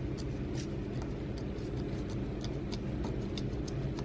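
Washing machine running with a steady low hum, mixed with faint, irregular scratching ticks from a scratch-off lottery ticket being scratched.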